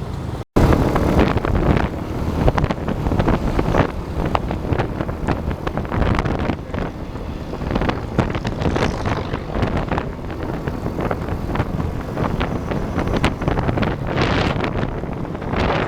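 Passenger train running along the track, a steady rumble with irregular wheel knocks and clatter, heard from aboard with wind buffeting the microphone. A brief dropout about half a second in.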